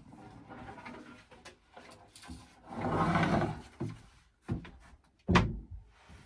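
Clatter of tools and wood being handled: scattered clicks, a short scraping noise about three seconds in, then a knock and a loud sharp thump near the end.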